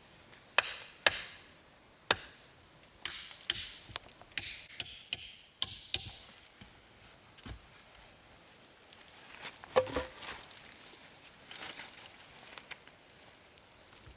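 A series of irregular sharp knocks and clatters: a few single strikes, then a quick flurry of them, and another burst near the end.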